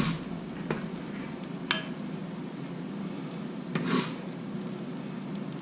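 Kitchen utensil clinking and scraping against a pan and a small bowl as fried rice is dished up: a short ringing clink just under two seconds in and a longer scrape around four seconds. A steady low hum runs underneath.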